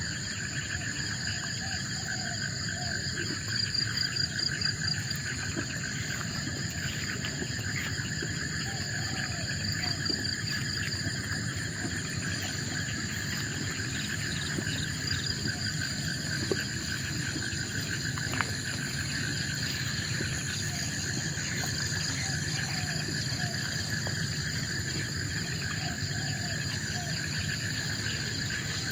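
Forest insect chorus: several insects chirring steadily at different pitches, layered over a low steady rumble, with faint short calls repeating now and then.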